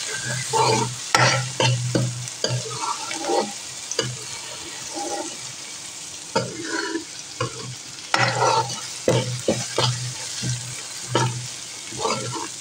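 Metal spoon stirring and scraping chopped onions and garlic paste as they fry in mustard oil in a metal karahi, the oil sizzling steadily. The scraping strokes come in irregular clusters, thinning out for a few seconds in the middle.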